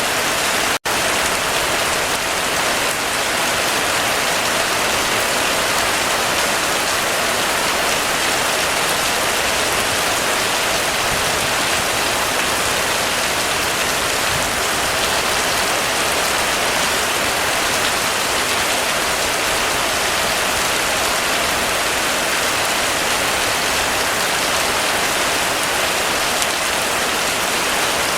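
Intense rainstorm: a steady downpour of rain with an even hiss, broken by a split-second gap about a second in.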